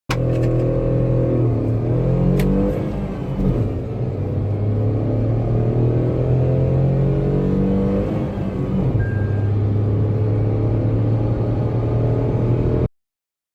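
A car's 1.2-litre naturally aspirated petrol engine under hard acceleration. The engine pitch climbs, falls at a gear change about three seconds in, climbs again and falls at a second shift near eight and a half seconds, then holds steady before the sound cuts off suddenly.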